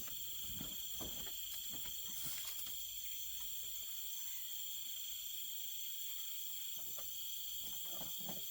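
Night-time chorus of crickets: several steady high-pitched trills held without a break. Soft rustles and light knocks come and go underneath, a few near the start and more near the end.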